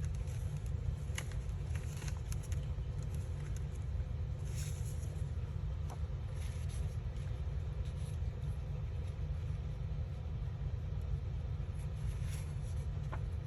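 A steady low background rumble with a faint steady hum, and a few faint short rustles and clicks of paper and craft materials being handled.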